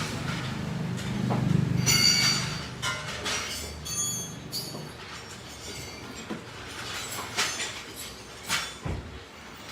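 Workshop noise of metal tools and parts clinking and scraping, with a few brief metallic ringing squeaks, over a low hum that fades out about halfway through.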